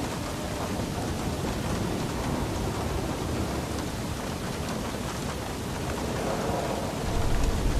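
Steady heavy rain falling, with a low rumble of thunder beginning to build near the end.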